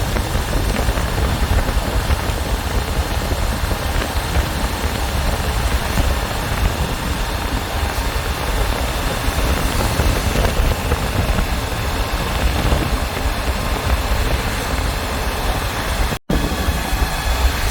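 Motorcycle engine running under wind rush on the microphone while riding at speed. The sound drops out for an instant near the end.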